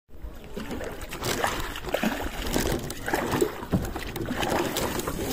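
Kayak on open sea: water sloshing and splashing around the hull and paddle, irregular and without a steady rhythm.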